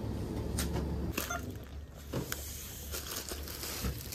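A low steady hum cuts off about a second in. It gives way to crinkling and handling noises with scattered light clicks and taps.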